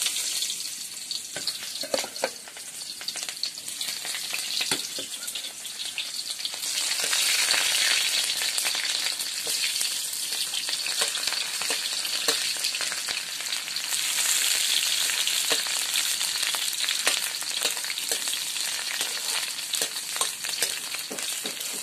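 Sliced onions sizzling in hot oil in a steel wok, with scattered clicks of a ladle stirring against the pan. The sizzle grows louder about six or seven seconds in.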